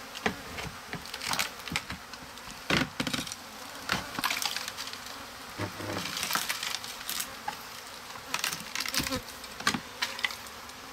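Honeybees buzzing steadily while a wooden windowsill is pried off, with repeated sharp cracks and knocks of splintering wood.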